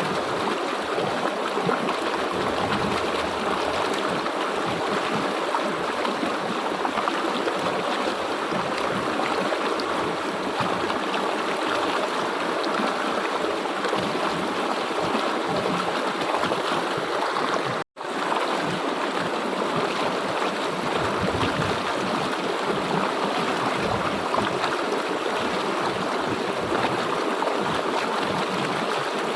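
River water flowing steadily over stones, a dense even rushing and gurgling. The sound cuts out for an instant about two-thirds of the way through, then carries straight on.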